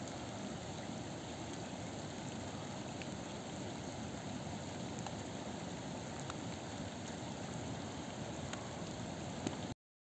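Steady rush of water with a few faint ticks scattered through it, cutting off abruptly near the end.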